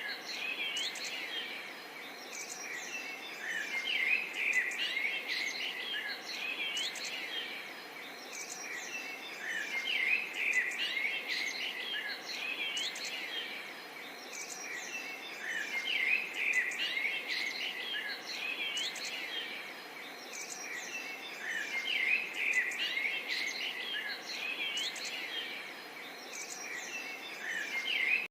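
Many small birds chirping and twittering together in dense bouts that swell and fade every five or six seconds, over a steady faint hiss.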